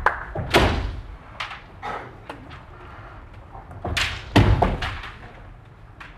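Kendo bout: sharp clacks and thuds of bamboo shinai and stamping feet on a wooden floor, the loudest cluster about four seconds in.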